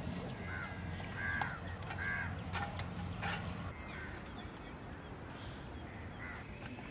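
A bird calling over and over, short arched calls about a second apart in the first half and again near the end, with a few light clicks. A low steady hum stops a little after halfway.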